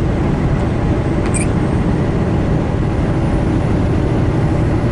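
Steady engine and tyre noise of a semi-truck heard inside the cab while driving on a wet highway, with one short faint tick about a second and a half in.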